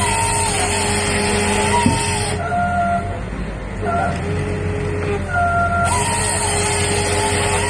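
Machinery running with a steady hum made of several fixed tones. Twice, for about two and a half seconds each, hissing noise swells over the hum along with a wavering whine: once at the start and again near the end.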